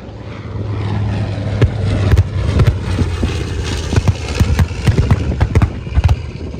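An aircraft's engine growing loud as it makes a low pass, with a run of sharp cracks over most of the pass.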